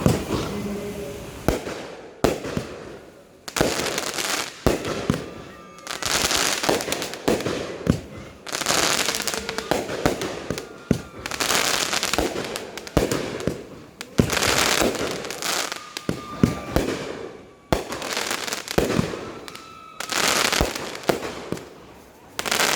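Fireworks going off, with sharp bangs and bursts of dense crackling following one another in quick succession.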